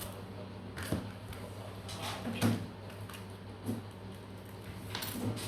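Several short knocks and rustles of objects being handled, over a steady low hum.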